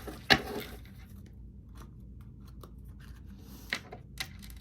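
Oracle cards being handled: a sharp snap of a card about a third of a second in, a brief rustle, then a few light taps of cards near the end.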